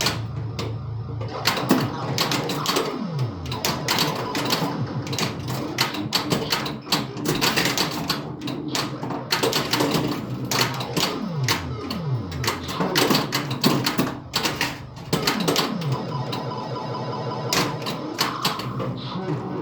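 Bally Centaur pinball machine in play: rapid, irregular clacking of flippers, pop bumpers and other solenoids, over the game's electronic sound effects, with falling sweeps about three seconds in and again past the middle.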